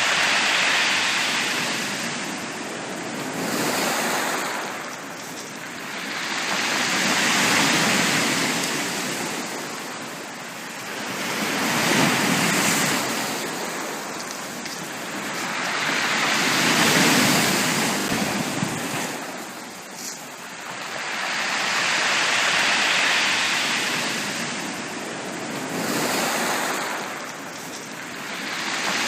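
Ocean waves breaking on a beach: a steady wash of surf that swells and recedes about every four to five seconds.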